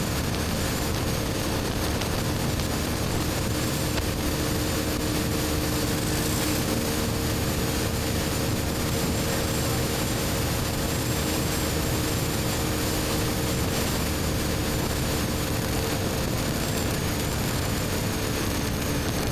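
BMW R1250GS Adventure's boxer-twin engine with an Akrapovic slip-on exhaust at a steady cruise, its engine note holding constant under a heavy rush of wind and road noise.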